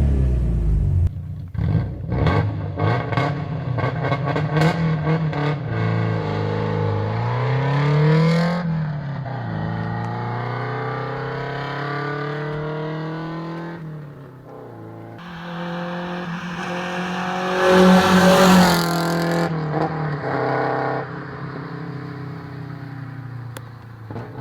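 Alfa Romeo 145/146 flat-four boxer engine revving and accelerating, its pitch climbing and dropping with each gear change, with a rapid clatter of clicks in the first few seconds. A louder burst of revs comes about three-quarters of the way in.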